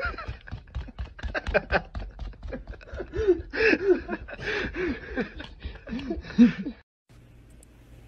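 A person snickering and laughing in short rising-and-falling bursts, with scattered clicks and taps. It breaks off abruptly about seven seconds in, leaving only a faint low hum.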